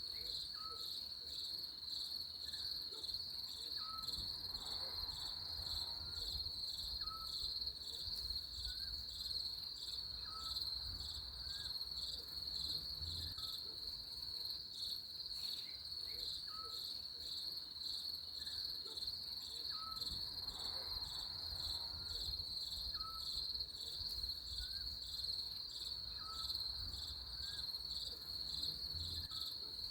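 Crickets chirping in a steady, rapidly pulsing high trill, with faint short chirps repeating about once a second beneath it.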